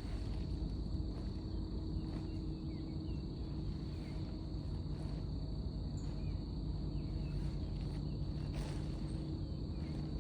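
Crickets or other insects making a steady, unbroken high-pitched buzz over a constant low rumble, with a few faint short chirps scattered through.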